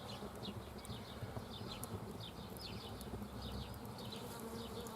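Faint outdoor background of small birds chirping in quick, short, falling notes, with an occasional sharp crackle from a wood campfire.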